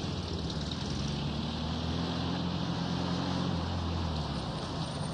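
A car engine running, growing a little louder and then fading out about four seconds in.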